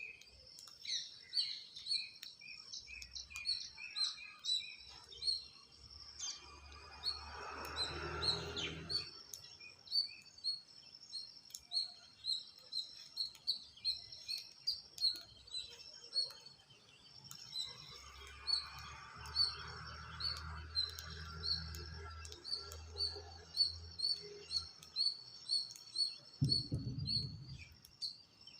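Birds chirping in rapid, high, repeated notes. A rushing noise with a low rumble swells and fades twice, and there is a short low thump near the end.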